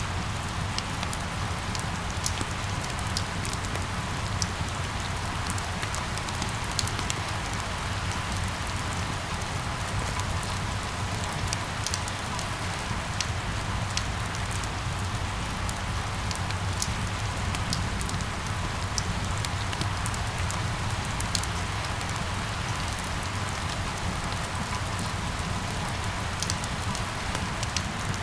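Steady rain falling, with many close individual drops ticking over an even hiss and a low rumble underneath.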